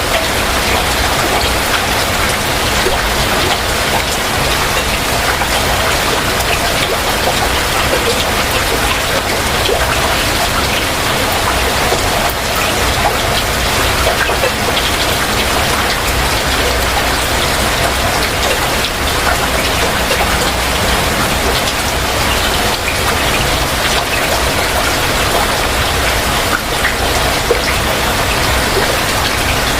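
Heavy rain falling steadily, a dense, even patter of drops hitting surfaces.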